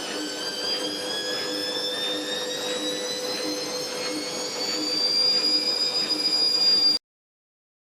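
Fagor washing machine's motor and drum spinning up, a high whine rising steadily in pitch over a low pulse about twice a second as the drum turns; it cuts off abruptly about seven seconds in.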